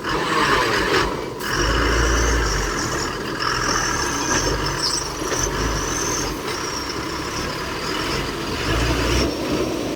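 Heavy diesel machinery running at a garbage dump, with a high, thin squeal from about two to seven seconds in and a deep rumble that swells near the start and again near the end.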